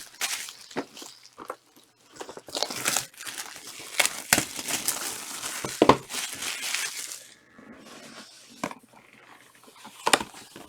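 Soccer trading card packs being handled and opened: foil wrappers crinkling and rustling in irregular bursts, with short clicks of cards tapping and sliding against each other. It goes quieter about seven seconds in.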